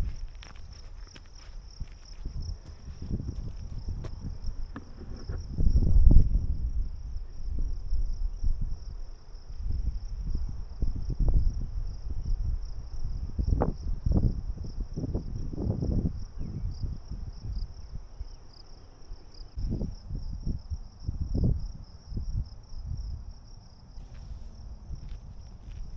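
Insects chirring, a steady high buzz that holds throughout, over the irregular low thuds of a hiker's footsteps, loudest about a quarter of the way in.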